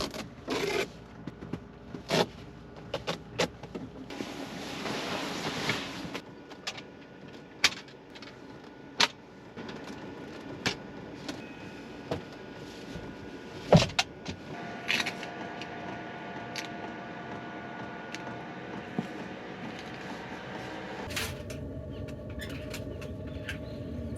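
A series of knocks and clicks, like gear being handled and packed in a van, with a rushing swell early on. About halfway through a steady hum comes in, and it changes to a lower, different hum near the end.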